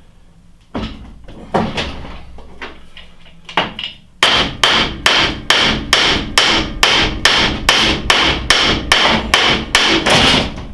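Hammer blows on steel parts of a lathe's under-drive assembly. A few spaced strikes come first. Then, from about four seconds in, a steady run of about three ringing metallic blows a second continues until near the end.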